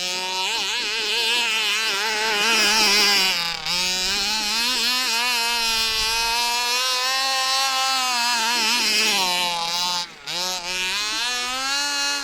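The 29cc two-stroke engine of a 1/5-scale gas HPI Baja 5B held at high revs under full throttle, its pitch wavering as the rear paddle tires spin in wet snow. The revs dip sharply for a moment about a third of the way in and again near the end, then climb back.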